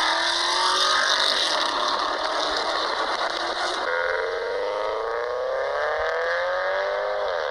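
Car engine and exhaust under acceleration, its pitch climbing steadily through the second half and falling sharply near the end.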